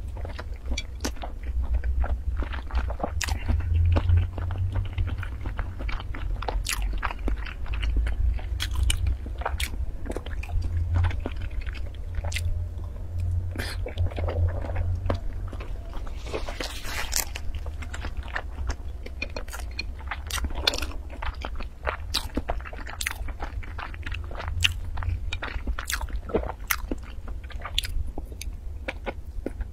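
Close-miked eating: a person chewing soft, gelatinous peeled century eggs, with many sharp wet mouth clicks and smacks, and a longer noisy suck about sixteen seconds in.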